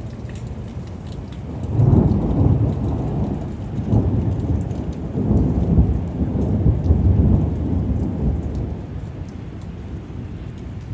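Rolling thunder over steady rain: the rumble builds about two seconds in, swells in several surges, and fades away over the last few seconds, while the rain keeps up a steady hiss with light drop ticks.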